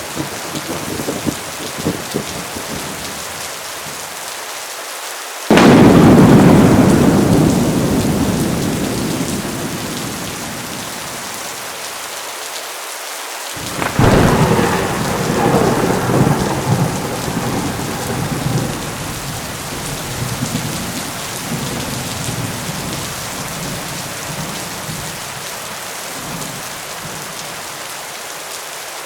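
Heavy rain falling steadily with two claps of thunder. The first is a sudden loud crack about five seconds in that rolls away over several seconds. The second comes about fourteen seconds in and is followed by long rumbling.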